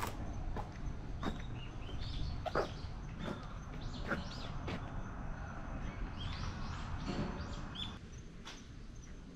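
Birds chirping in short scattered calls over a steady low outdoor rumble.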